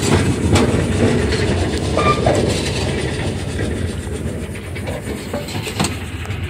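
Narrow-gauge Porter locomotive No. 58 and its train running along the track, heard from on board: a steady low rumble with scattered clicks and knocks from the wheels and running gear.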